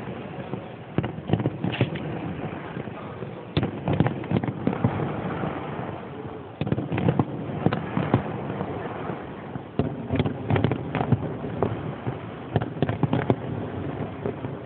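Aerial fireworks show: shells bursting in irregular bangs, several in quick clusters, over a steady background rumble.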